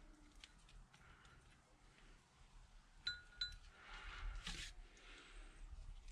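Quiet handling of brake caliper parts on a bench: two light metallic clinks with a short ring about three seconds in, then a brief scrape or rustle, amid small clicks.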